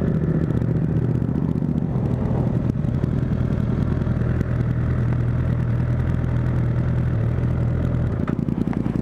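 Motorcycle engine running steadily at low revs. About eight seconds in, its sound changes to a choppier, pulsing beat.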